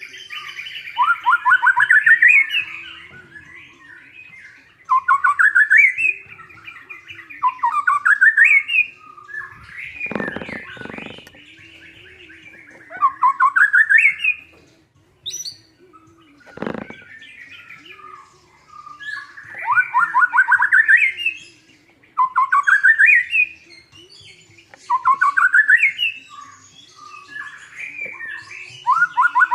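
White-rumped shama (murai batu) singing in full song, repeating a fast run of notes that climbs in pitch every few seconds, with chattering phrases between. About a third of the way in, and again a little past halfway, a short lower burst breaks through the song.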